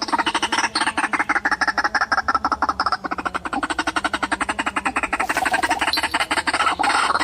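White-breasted waterhen calling: a fast, unbroken chatter of harsh croaking notes, about ten a second.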